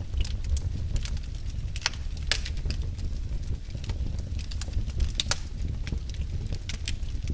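Wood fire crackling in a fireplace: irregular sharp pops and snaps, a few louder ones, over a low steady rumble.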